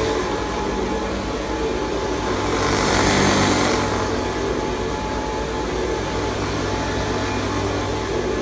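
1969 Hoover Convertible Model 1070 upright vacuum cleaner running steadily, its motor giving a constant hum, with a louder rush of air about three seconds in.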